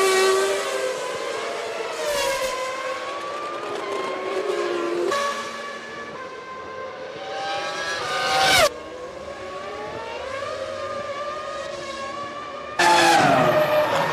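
V10 Formula One race car engines on track, several cars passing at high revs with their engine notes rising and falling through gearchanges and braking. The sound cuts sharply between shots about five, eight and a half and thirteen seconds in, and is loudest in the last second.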